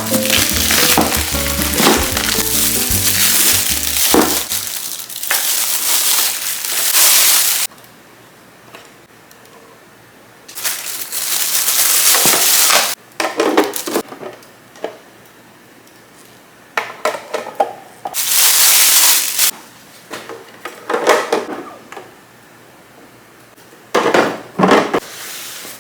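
Background music for the first few seconds. Then comes a string of separate bursts of rustling and clattering from plastic packaging and plastic fridge containers being handled, with short quiet gaps between them.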